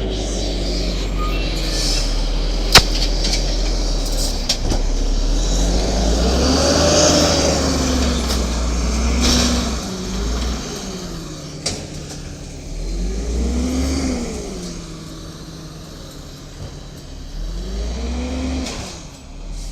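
Cummins L10G natural-gas engine of a garbage truck running and revving up and back down about four times, with a sharp click about three seconds in.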